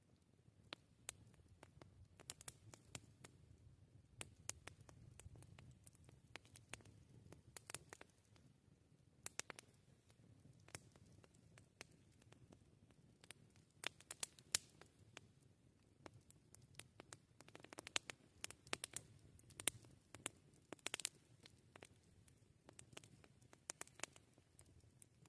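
Wood campfire crackling faintly: irregular sharp pops and snaps over a soft low rumble of the flames, growing busier in the second half.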